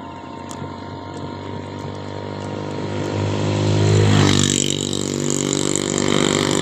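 A motor vehicle engine running and growing louder, loudest about four seconds in, where a rush of noise joins it and stays.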